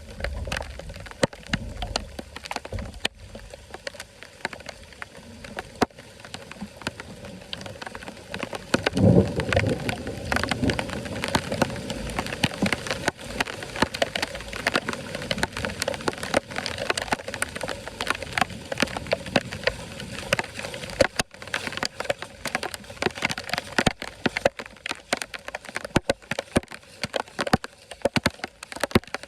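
Water splashing and pattering, with many sharp clicks and cracks throughout and a louder surge of water about nine seconds in.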